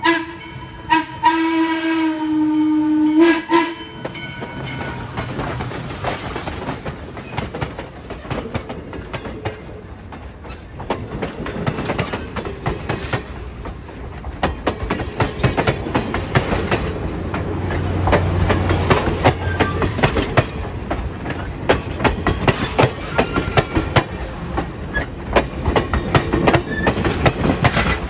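Steam locomotive No. 1309's chime whistle blowing in short blasts for the first three and a half seconds. Its passenger train then passes close by, with a steady run of wheel clicks over the rail joints.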